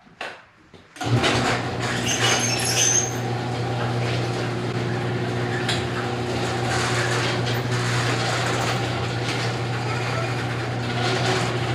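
Electric garage door opener running, its motor humming steadily with a rattle as the door travels; it starts suddenly about a second in.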